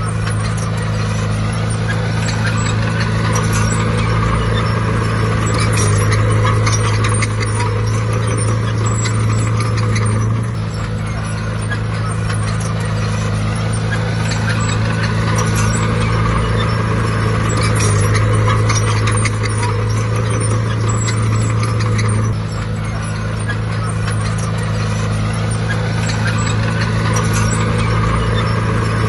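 Heavy diesel engine of earthmoving machinery running hard and steadily, with metallic clatter over it. The engine note swells and then eases briefly about ten seconds in and again about twenty-two seconds in, in repeating work cycles.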